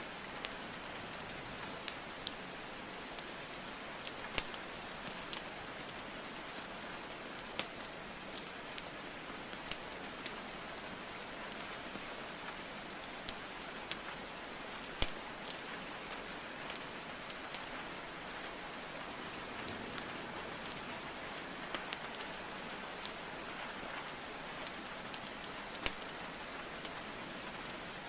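Steady rainfall hiss mixed with the irregular crackle and pops of burning wood logs in a fireplace, with one louder pop about halfway through.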